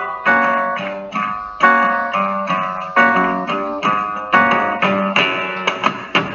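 Instrumental fado music: plucked guitars picking a melody of ringing notes over a recurring low note, with no singing.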